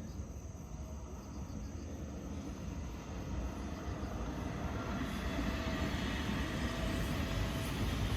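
Car driving, with steady low road and engine rumble heard from inside the cabin, growing gradually louder as it picks up speed.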